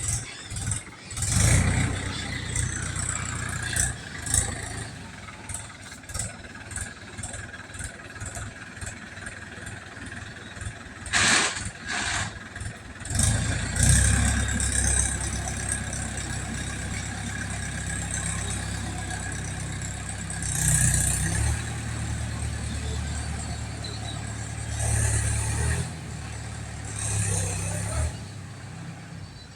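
A small motor running with a steady low hum. It starts about a second and a half in, grows louder about halfway through and stops near the end, with a few sharp clacks and rattles a little before the halfway point.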